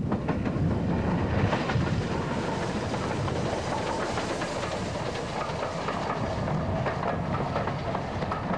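A steam-hauled passenger train passing close by: a heavy rumble that swells as it arrives, with the wheels clicking over the rail joints as the coaches go past.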